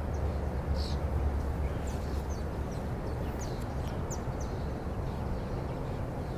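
Small birds chirping faintly now and then over a steady low rumble on the microphone.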